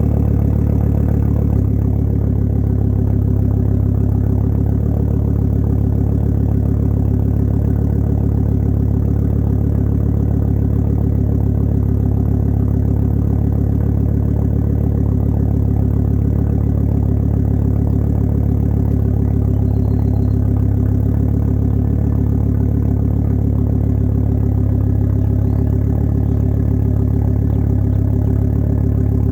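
Volvo V70 XC 2.4T's turbocharged inline-five idling steadily after a cold start, heard through a 3-inch exhaust with a catted downpipe and only a resonator.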